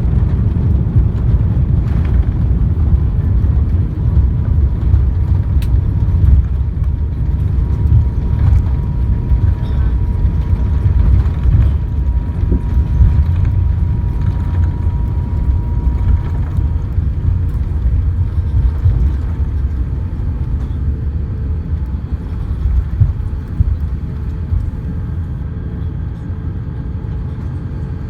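Cabin noise of an Airbus A350-900 airliner: a loud low rumble that slowly eases off, as during the landing roll while the aircraft slows on the runway.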